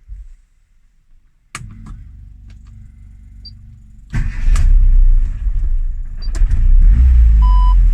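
Classic Mini's A-series four-cylinder engine being cranked after three months standing: a low, even churning begins about a second and a half in, then the engine catches about four seconds in and runs loud, rising and falling with the throttle. Two short beeps sound near the end.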